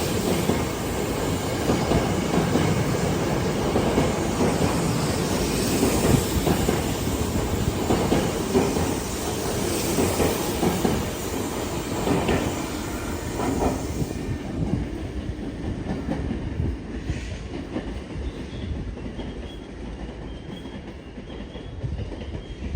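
Electric train with a Toshiba IGBT-VVVF inverter pulling out and gathering speed, its wheels clattering over the rail joints. The running noise slowly fades toward the end.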